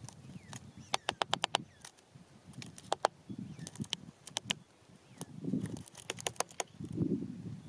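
Birds at hanging feeders pecking and tapping: sharp clicks, some in quick runs of six or seven, with a few soft low flutters or thuds.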